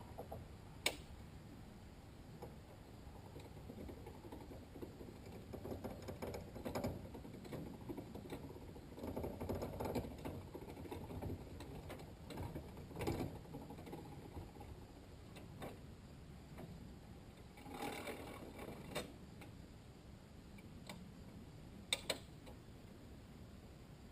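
Faint, irregular mechanical clicks and rattles from working a hydraulic pickup-truck crane, with a sharp click about a second in and two more close together near the end.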